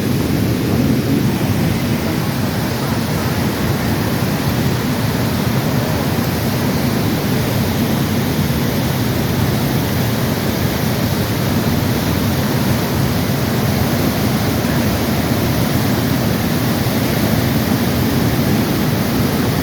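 A creek in flood pouring over a waterfall: a steady, loud rush of water.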